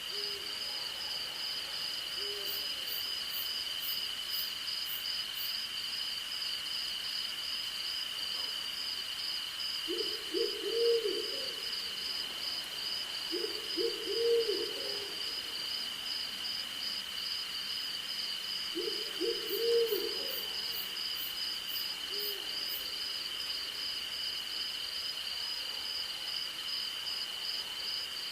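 An owl hooting in three short runs of quick notes, about ten, fourteen and nineteen seconds in, with a few fainter single hoots between. Under it crickets and other insects keep up a steady high trill, one note held and another pulsing fast, with two brief runs of very high ticking.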